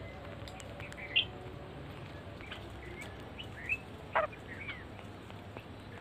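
Babblers giving short, scattered chirping calls. The loudest comes about a second in and two more come around four seconds in, over a steady low hiss.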